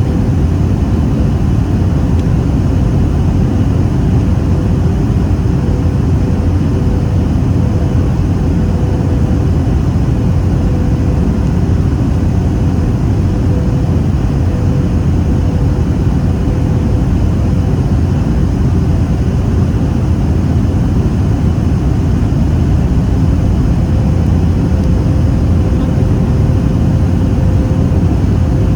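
Steady cabin roar inside a Boeing 737-800 over the wing: airflow and its CFM56-7B turbofan engines, with a faint steady hum.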